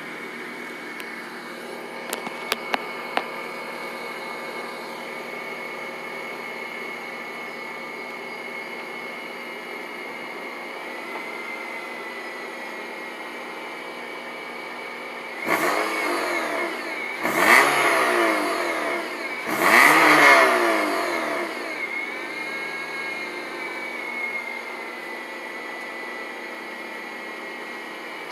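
A 2006 Honda Civic's 1.8-litre four-cylinder engine idles steadily through a header and test pipe in place of the catalytic converter, with the stock muffler. There are a few sharp clicks about two seconds in. Past the halfway point the throttle is blipped three times in quick succession, each rev rising and falling back, and then the engine settles back to idle.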